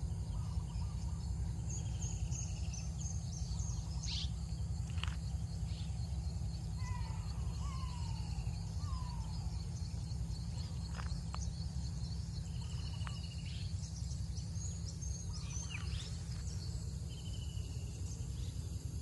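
Scattered birdsong over a steady low rumble: short whistled notes, a run of falling calls around seven to nine seconds in, and high chirps.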